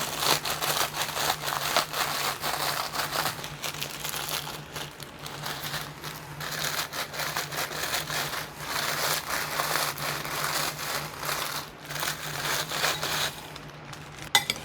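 A sleeve of butter crackers being crushed by hand: continuous crinkling and crunching that stops about thirteen seconds in.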